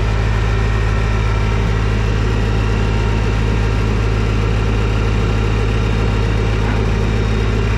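TYM T224 subcompact tractor's diesel engine running at a steady speed, a constant low drone.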